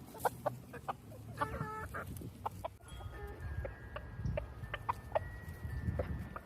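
Silkie chickens clucking with many short, soft calls, joined in the second half by a few thin, drawn-out high notes.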